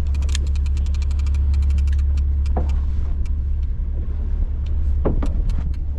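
Steady low drone of a fishing boat's engine, with a fast run of sharp clicks early on and a few scattered clicks after.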